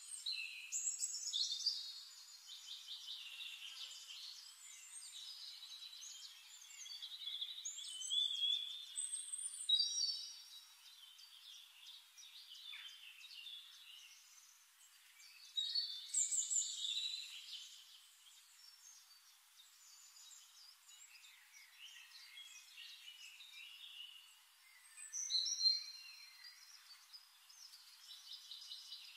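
Small birds singing and chirping, several calls and trills overlapping, with louder flurries of song about eight to ten seconds in, around sixteen seconds and near the end.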